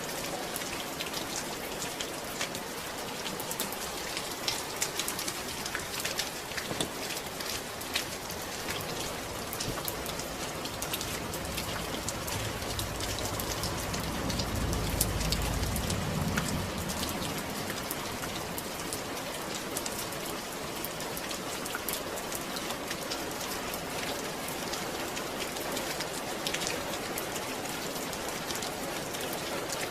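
Steady rain falling, an even hiss with many individual drops pattering on a surface. A low rumble swells and fades about halfway through.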